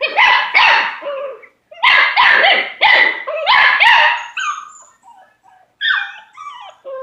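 German short-haired pointer puppy barking at its food dish: a quick string of high-pitched barks, then fainter, shorter yips near the end.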